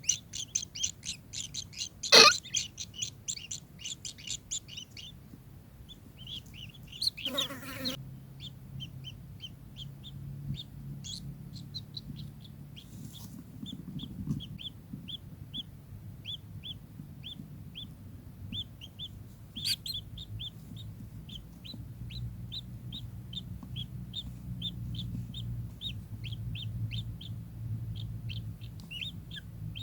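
Kingfisher (tengkek) calling a long series of short, sharp notes, fast at first and then settling to about two or three notes a second. A sharp knock comes about two seconds in.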